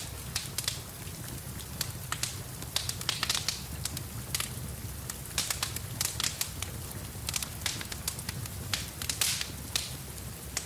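Wood fire crackling in a fireplace, with frequent irregular sharp pops and snaps over a steady low rumble. Rain hiss runs in the background.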